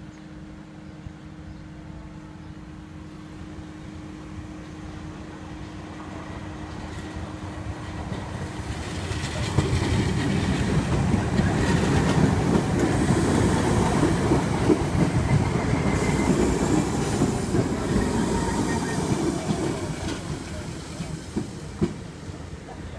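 Merseyrail electric passenger train passing over a level crossing. It builds from about six seconds in and is loudest for about ten seconds, with the clickety-clack of wheels over rail joints. It fades near the end.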